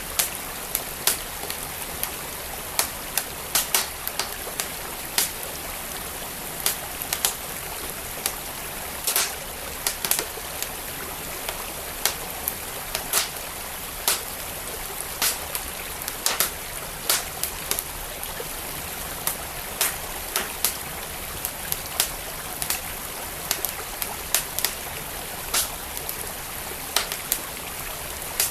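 Wood fire crackling in a fireplace, with sharp, irregular pops about once or twice a second, over the steady rush of flowing stream water.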